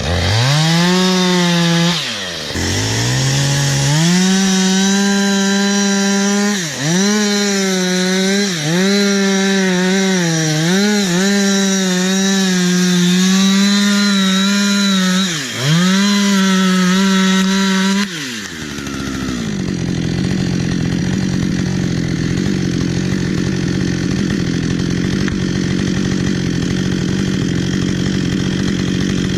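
Two-stroke chainsaw run at full throttle, its pitch sagging and recovering briefly about six times as it works through wood. About two-thirds of the way in it drops back to a steady idle.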